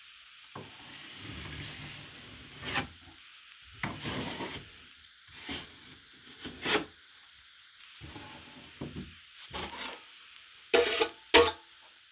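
Steel drywall knife scraping over paper tape bedded in joint compound on drywall, pressing out the excess mud in a series of separate strokes. The two loudest strokes come close together near the end.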